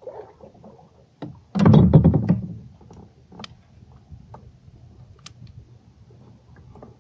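A quick cluster of knocks and rattles against the kayak about a second and a half in, followed by a few scattered clicks, as gear is handled aboard.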